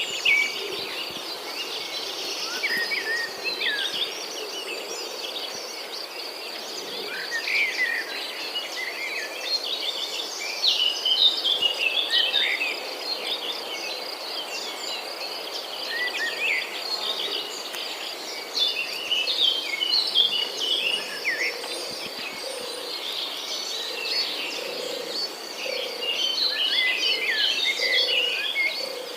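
Many overlapping bird chirps and quick whistled calls over a steady high insect trill, like cicadas or crickets.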